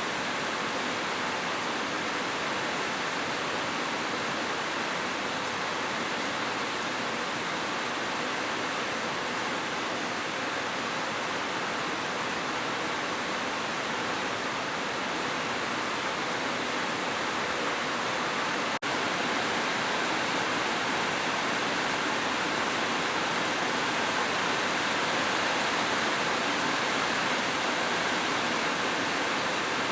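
Heavy rain falling in a steady, even hiss. There is a momentary break about two-thirds of the way through.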